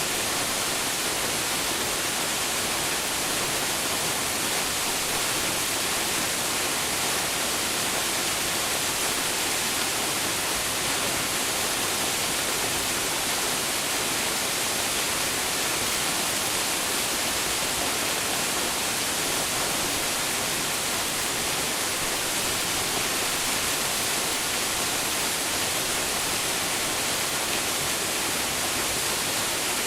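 Waterfall crashing into its pool, a steady, unbroken rush of falling water with most of its energy in the high hiss.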